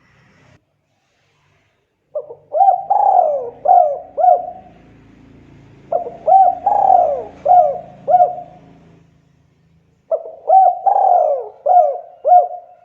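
Spotted dove cooing in three phrases of about five quick coos each, a few seconds apart.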